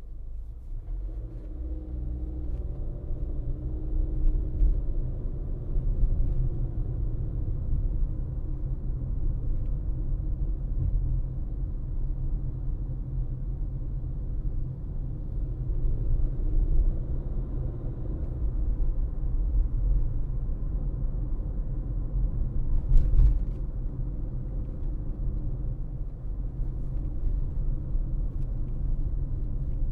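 Steady low rumble of a car driving: road and tyre noise with engine hum. One brief louder bump comes about three quarters of the way through.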